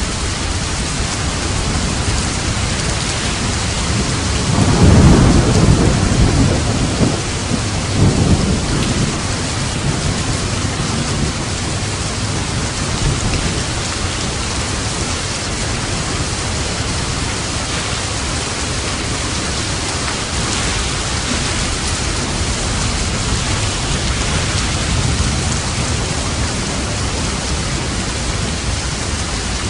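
Steady heavy rain with a roll of thunder that swells about four seconds in and rumbles away over the next few seconds.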